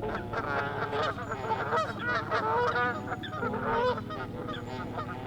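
A flock of geese honking, many calls overlapping continuously.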